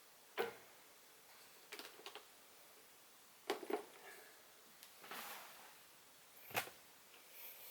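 A few sharp clicks and knocks at irregular intervals over a faint steady background, with a softer rustling swell about halfway through.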